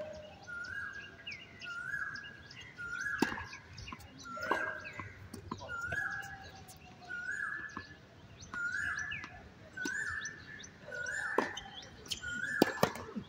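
A bird calling over and over, one short rising note about once a second. A few sharp knocks sound through it, most near the end.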